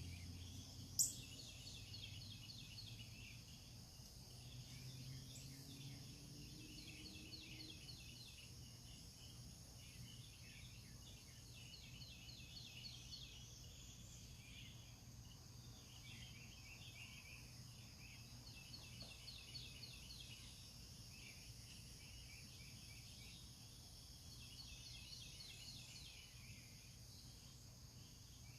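Faint morning birdsong: several birds repeating quick series of chirps and trills over a steady low hum. There is a single sharp click about a second in.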